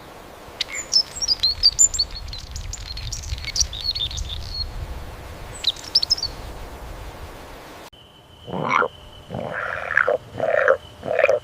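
Wild animal sounds: quick high bird chirps over a low rumble. After an abrupt cut about eight seconds in come about five short croaking calls, with a faint steady high tone behind them.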